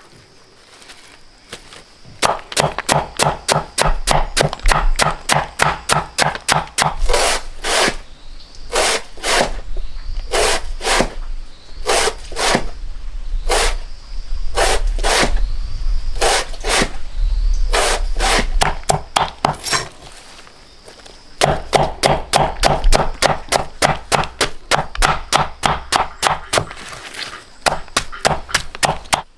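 Rapid, evenly repeated chopping strokes, about three a second, in two long runs with a short pause about two-thirds of the way through.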